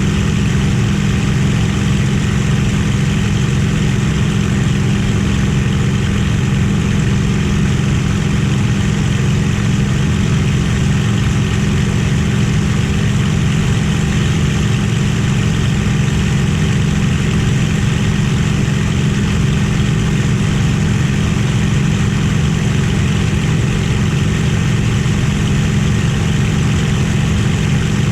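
Warbird fighter's Merlin V12 piston engine running steadily at constant power, a loud even drone with no change in pitch or level.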